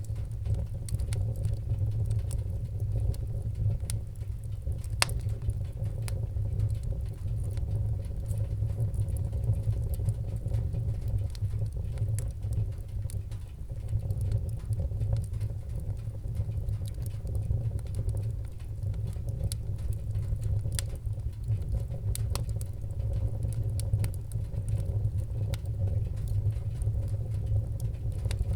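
Wood fire in a fireplace crackling, with a steady low rumble of the flames and scattered sharp pops and clicks.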